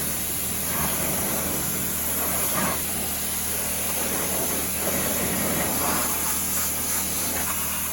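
Pressure washer running steadily: an engine hum under the hiss of a water jet spraying the tires.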